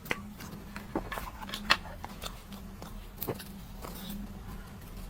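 Close-miked eating sounds of old-style cream cake being eaten: wet chewing with a series of sharp mouth smacks and clicks, the loudest about two seconds in.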